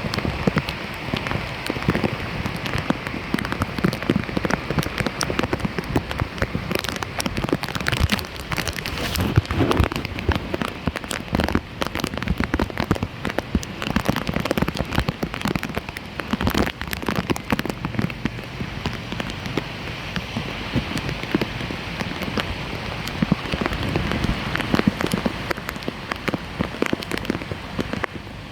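Dense, irregular patter and splashing of water, like rain falling on standing water, running steadily throughout.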